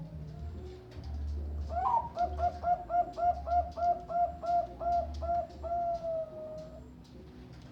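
Zebra dove (Bangkok-line perkutut) singing: starting about two seconds in, a quick even run of about a dozen short coos, ending in one long drawn-out note.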